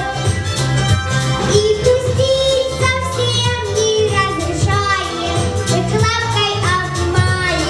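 A young girl singing solo over backing music, her held notes bending in pitch above a steady, repeating bass line.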